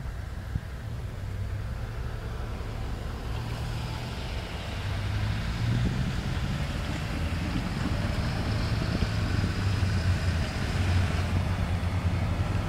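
Low, steady rumble of wind on the microphone, with the hiss of a vehicle on the snowy street that builds about three seconds in and fades near the end.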